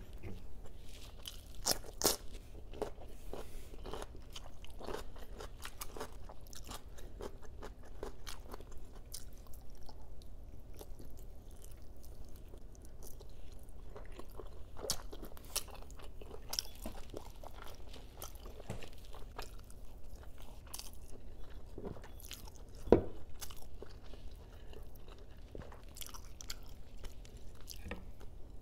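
Close-up chewing and biting on braised chicken wings, with a steady run of small clicks from mouth and bone. A single sharp knock about 23 seconds in is the loudest sound.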